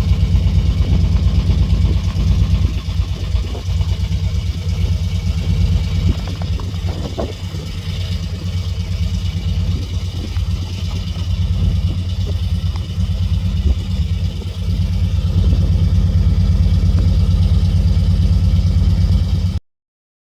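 Vehicle engine running in deep cold just after a cold start, a dense low pulsing that gets louder about fifteen seconds in, then cuts off suddenly near the end.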